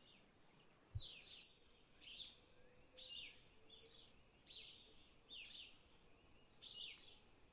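Faint bird calls: short downward-slurred chirps repeated about once a second. A steady high buzz stops about a second and a half in, and there is a soft low knock about a second in.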